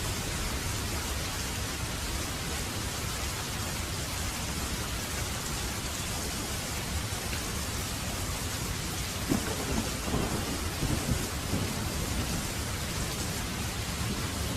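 Steady rain falling, with a constant low rumble underneath. A few sharper spatters or knocks stand out about nine to eleven seconds in.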